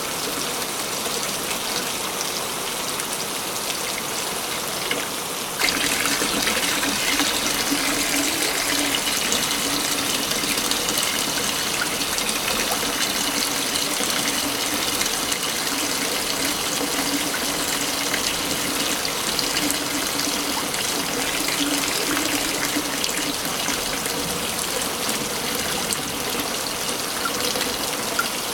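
Waterfall rushing steadily, a constant hiss of falling water; about five seconds in it abruptly gets louder and brighter.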